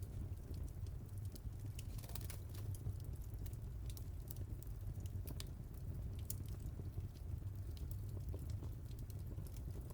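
Wood fire burning in a fireplace, with scattered irregular crackles and pops over a steady low rumble.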